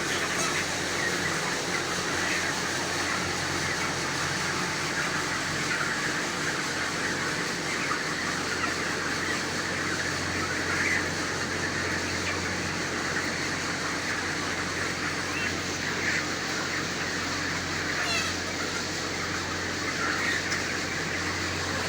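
A large flock of young broiler chickens calling together in a dense, continuous chatter, over a steady low hum.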